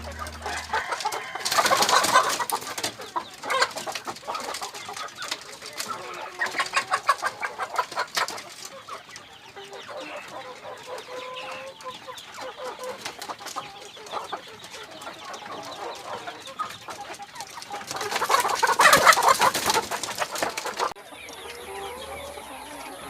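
Ayam Cemani chickens clucking. There are louder, busier stretches of calls about two seconds in and again around nineteen seconds.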